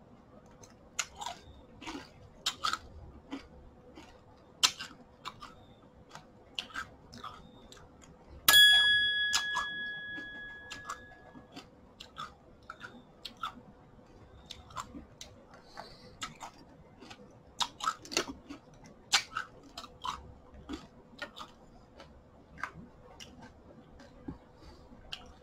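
Close-miked chewing of cornflakes in drinking yogurt, with small clicks of a spoon against a ceramic bowl. About eight seconds in, a single loud ringing ding fades away over about two seconds.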